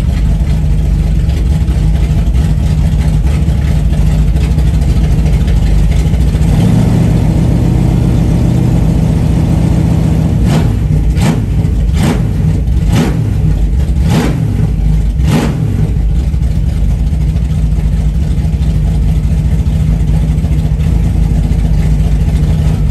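360 stroker small-block V8 running on its first start, idling, then blipped six times in quick succession, each rev rising and dropping back, before settling to a steady idle again.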